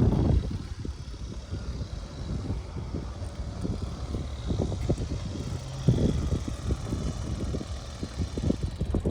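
Wind buffeting the microphone of a camera carried on a moving bicycle: an uneven, fluttering low rumble that rises and falls in gusts.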